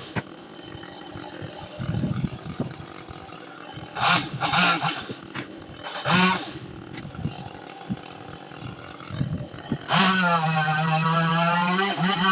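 Chainsaw running at low revs with short throttle blips, then opened up to full throttle and held there for about two seconds near the end before dropping back.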